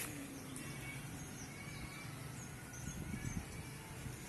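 Steady outdoor background noise with a low hum, and faint short high chirps of small birds scattered through the middle.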